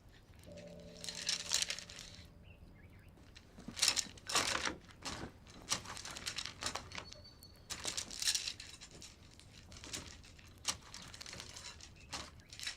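Scattered rustling and brushing noises, like cloth or paper being handled, a few separate bursts a couple of seconds apart. A short low steady hum sounds about half a second in and stops by two seconds.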